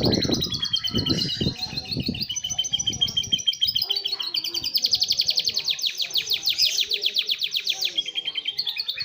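Canary singing a fast, tightly packed song of rapid trills with lovebird-like notes, the densest trill about halfway through. There is some low noise underneath in the first two seconds.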